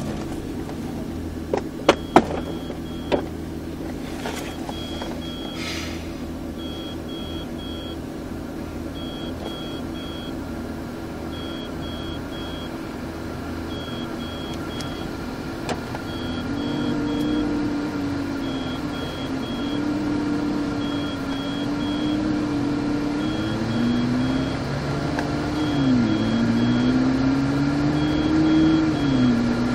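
McLaren's twin-turbo V8 idling, heard from inside the cabin, with a few sharp clicks about two seconds in. From about seven seconds a warning chime of three quick high beeps repeats roughly every two and a half seconds. About halfway through the car pulls away slowly and the engine note rises and falls as it moves off.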